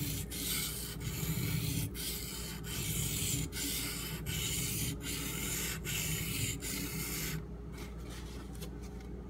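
Steel knife edge scraping over a coarse Shapton Pro 320-grit whetstone in about ten even back-and-forth strokes, roughly one stroke every three-quarters of a second. The strokes stop near the end.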